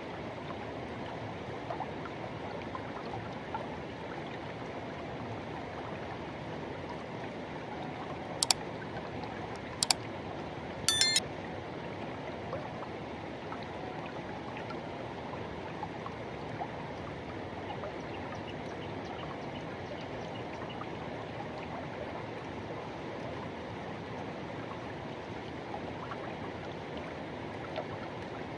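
Forest river water rushing steadily over rocks. About eight and a half to eleven seconds in, three short sharp sounds cut through it, the last and loudest a brief shrill squeak.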